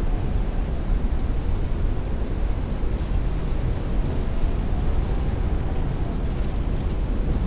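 Heavy rain beating against a window with strong wind rushing, a steady, deep wash of sound without thunder.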